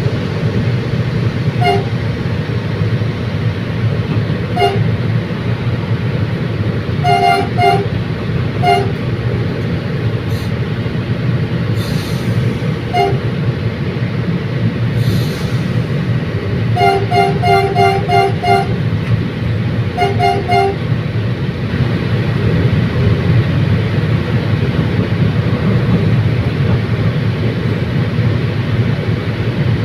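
Commuter train running with a steady low rumble while its horn sounds a string of short toots, some single and some in quick runs of three to six, ending about two-thirds of the way through. Two brief hisses come in the middle.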